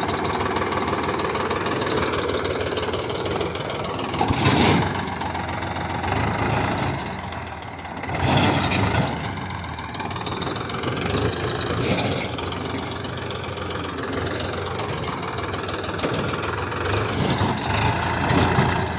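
Tractor engine running steadily, with a few brief louder surges.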